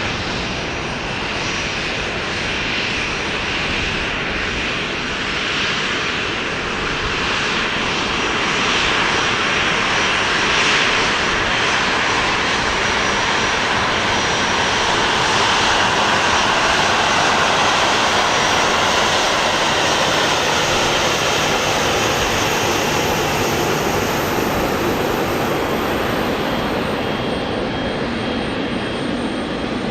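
Airliner engines running, heard as a steady rush that swells to its loudest around the middle and eases a little towards the end.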